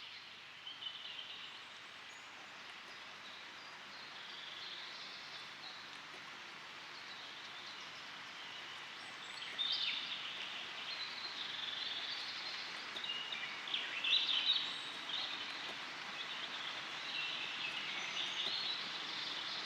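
Birds chirping and singing over a steady outdoor hiss; the calls get busier about halfway through, and the sound cuts off suddenly at the end.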